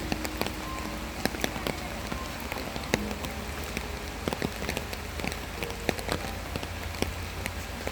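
Steady rain falling, with many separate drops pattering close by as sharp little taps.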